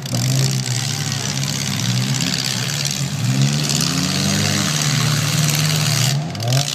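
Demolition derby car engines revving and idling, their pitch rising and falling repeatedly as the cars accelerate and back off, over a steady wash of noise. The sound drops out briefly near the end.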